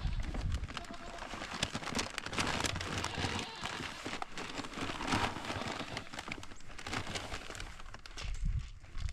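Goat grain being poured from a bucket into a feed trough: a dense, uneven patter of small clicks.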